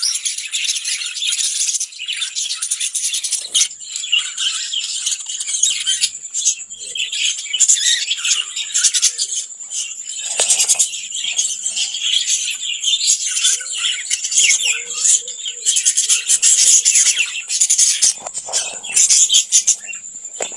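Lovebirds chattering: a dense, continuous run of shrill, rapid chirps and squeaks, with a steady thin high tone underneath.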